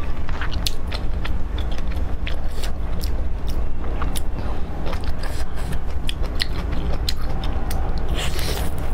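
Close-miked eating sounds: chewing and biting with many sharp, irregular clicks and crunches over a steady low hum, and a brief hissy patch near the end.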